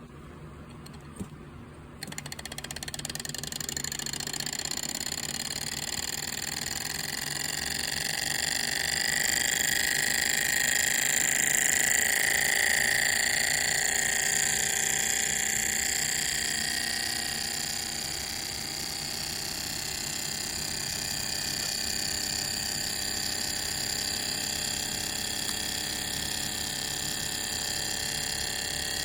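Small model Stirling engine running: a steady mechanical whir with several high, held tones. It sets in suddenly about two seconds in and swells toward the middle before easing slightly.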